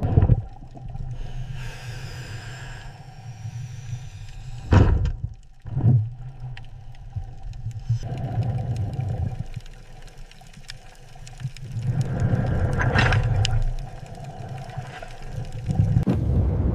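Deep, steady low rumbling with two heavy thuds about five and six seconds in, faint wavering high tones early on, and a swell of noise around two-thirds of the way through.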